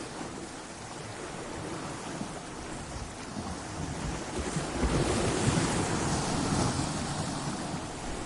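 Ocean waves breaking against coastal rocks: a steady wash of surf that swells into a louder surge about halfway through, then eases off.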